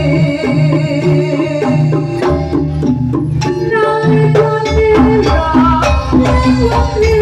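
Live jaranan (kuda lumping) accompaniment music: a pitched melody with wavering held notes over regular drum strikes. A deep bass note comes in about halfway through.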